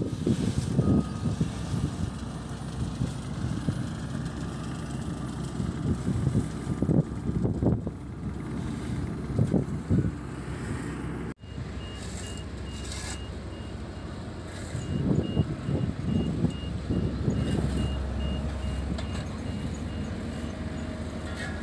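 Heavy diesel road-construction machinery running, its engines surging now and then. About halfway through, a reversing alarm starts beeping at a steady rhythm.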